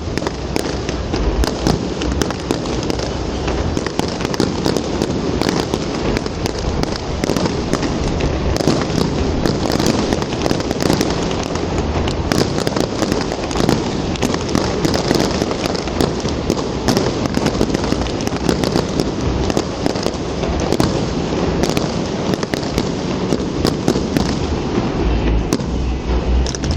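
Fireworks display: a dense, unbroken barrage of bangs and crackling bursts, many overlapping at once.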